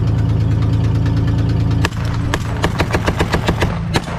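Ferret scout car's six-cylinder engine running steadily. A little under two seconds in it breaks off, and soon after the turret's Browning M1919 machine gun opens up firing blanks in a fast, even burst of several shots a second.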